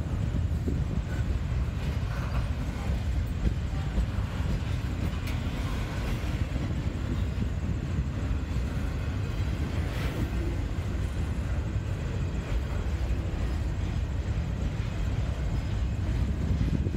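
Double-stack container train of well cars rolling past: a steady low rumble of steel wheels on the rails, with a few sharp clicks.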